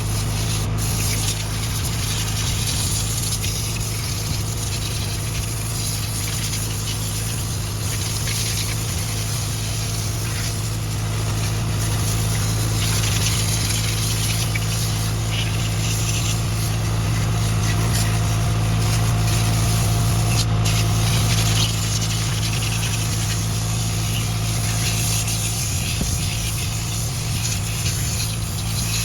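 An engine running steadily at an even speed: a constant low hum with a haze of hiss and a few faint clicks.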